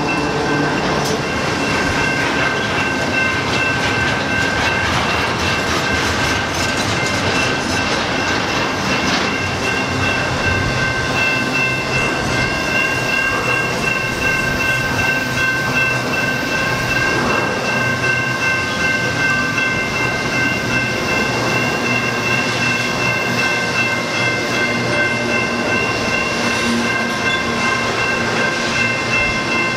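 Double-stack intermodal freight train rolling past: a steady rumble and clatter of wagons on the rail, with a few steady high-pitched tones above it. A low diesel locomotive hum is heard only in the first second or so.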